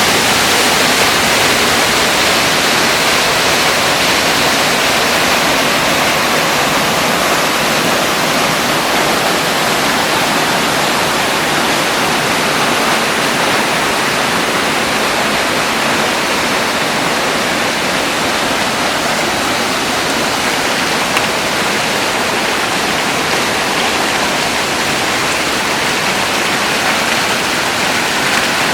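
Cloud-forest waterfall rushing: a loud, steady roar of falling water.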